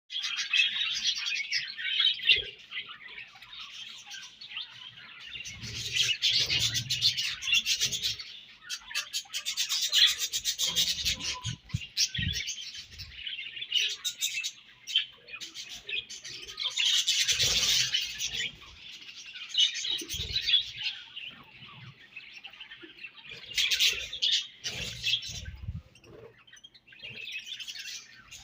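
Budgerigars chirping and chattering continuously, rising and falling in busy stretches, with scattered sharp clicks and a few soft low thumps among the calls.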